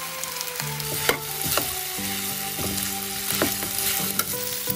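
Chicken pieces sizzling as they fry in a metal wok, stirred with a metal spatula that scrapes and clicks against the pan a few times.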